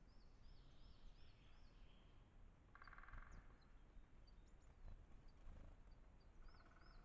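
Faint songbird singing, a quick series of repeated high notes twice. A short buzzy rattle comes about three seconds in.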